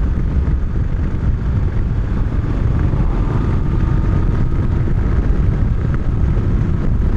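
Moto Guzzi motorcycle riding at a steady cruise, engine running evenly under heavy wind rumble on the microphone.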